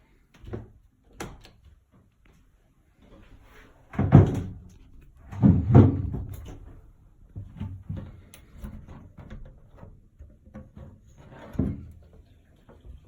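Drain pipe knocking and thudding irregularly, heard through a wall. The loudest thuds come about four and six seconds in; the cause of this abnormal noise is unknown.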